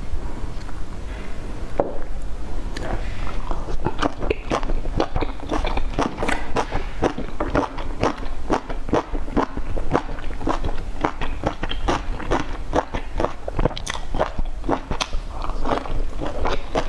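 Close-up chewing and mouth sounds of a person eating boiled dumplings: a quick run of small clicks and smacks, several a second, over a low steady hum.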